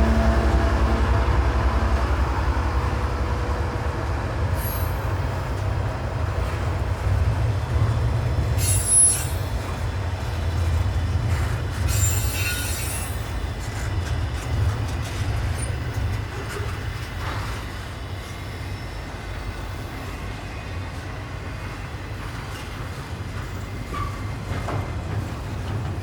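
A train rolling past with a steady low rumble. Short high-pitched wheel squeals come about a third and about halfway through, and the rumble fades toward the end.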